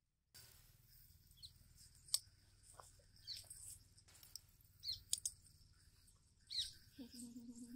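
Birds chirping, a few short high falling calls, over faint steady background noise. Two sharp clicks are heard along the way, and near the end a low pitched sound starts.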